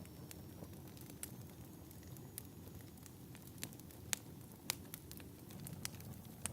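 Fireplace fire crackling: scattered sharp pops and snaps at irregular intervals over a low, steady rumble, the loudest pop about four seconds in.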